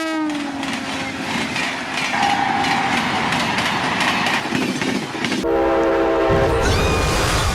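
A train horn drops in pitch as the train passes, then the clatter and rattle of a train running on the rails. About five and a half seconds in, a second horn blast sounds over a deep rumble for about a second.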